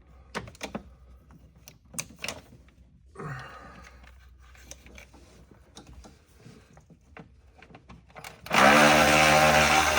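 A cordless power tool whirring steadily for a loud stretch from near the end, with a shorter, fainter whirr about three seconds in and light clicks of hand tools on metal before it.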